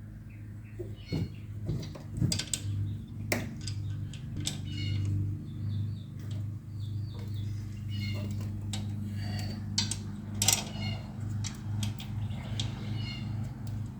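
Metal clinks and knocks of tools and suspension parts being handled during a front strut reinstall, scattered irregularly over a steady low hum.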